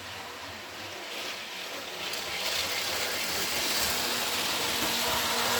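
Model train running along the track, growing steadily louder as it comes closer, with a faint steady hum in the second half.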